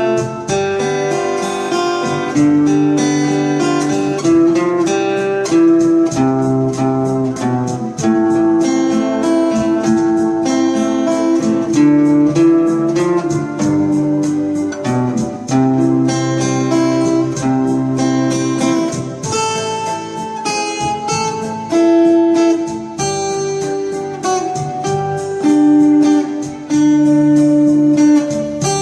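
Acoustic guitar playing an instrumental melody over chords, note after note plucked and left to ring.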